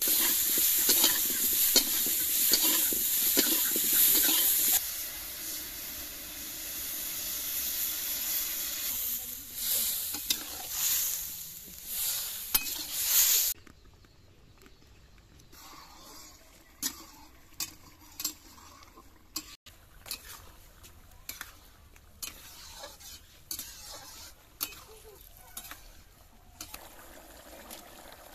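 Cauliflower sizzling in hot oil in a kadai (wok) while a spatula stirs and scrapes it, loud for about the first 13 seconds. It then cuts down to a quiet background with scattered sharp pops and clicks.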